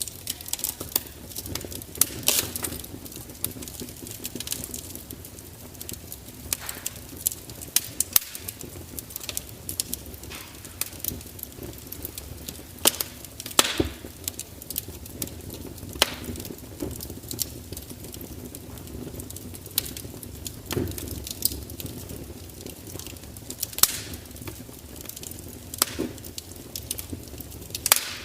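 Open fire crackling, with a steady low rush and irregular sharp pops and snaps, a few of them louder than the rest.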